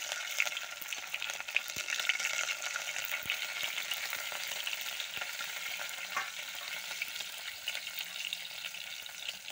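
Chopped green chillies sizzling in hot oil in an aluminium pot, a steady frying hiss with a few small pops.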